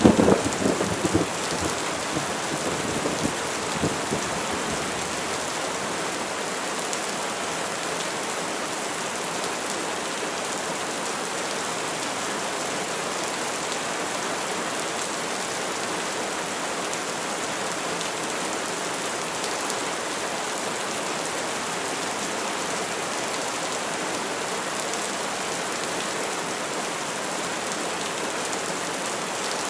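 Steady rain with a sharp thunderclap right at the start that crackles and rumbles for about four seconds before dying away, leaving only the even hiss of rain.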